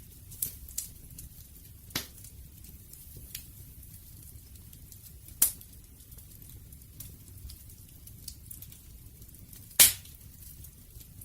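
Wood fire burning with a low steady rumble and scattered sharp crackles, the loudest pops about halfway through and near the end.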